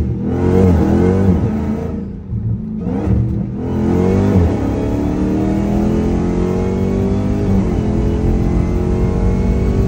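Supercharged Hellcat Hemi V8 in a Chrysler 300, running with its catalytic converters removed, accelerating hard through the gears, heard from inside the cabin. The pitch climbs in long pulls, dropping back at upshifts about two seconds in and again past seven seconds.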